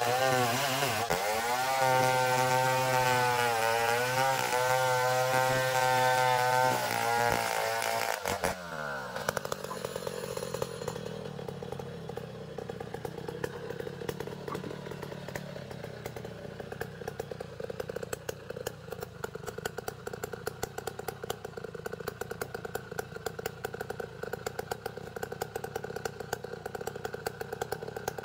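Engine-driven band saw mill cutting an ironwood log, running under load with a wavering pitch. About eight seconds in, the pitch falls away and the mill settles into a lower, steady run with a fast clatter.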